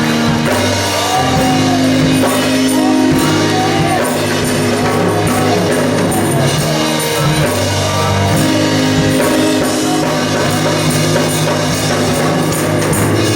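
Gospel praise band playing: held chords with drums and guitar, and a voice singing over them.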